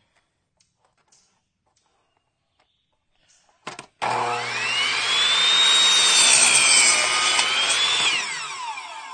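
Electric saw spinning up about four seconds in and cutting across a 2x10 board, its motor whine climbing, holding steady through the cut, then falling away as the blade winds down near the end.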